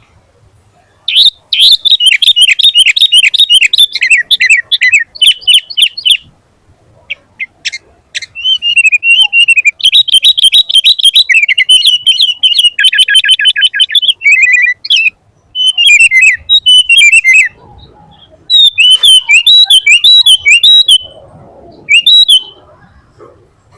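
Sooty-headed bulbul (kutilang) singing loudly in fast runs of high, quickly repeated notes, in about five phrases broken by short pauses.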